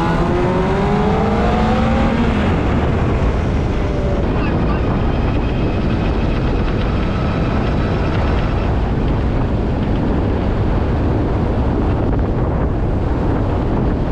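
600 cc inline-four sport bike engine climbing in pitch as it accelerates for about two seconds, then a steady rush of wind noise on the microphone while riding.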